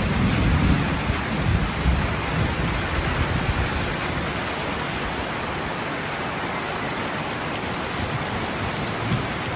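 Heavy rain pouring down in a thunderstorm, a steady even hiss. A low rumble of thunder runs through the first couple of seconds and then fades away.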